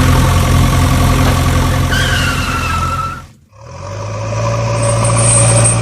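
Vehicle engine running steadily, with a short falling squeal about two seconds in; the sound cuts out briefly past the middle and an engine hum starts again.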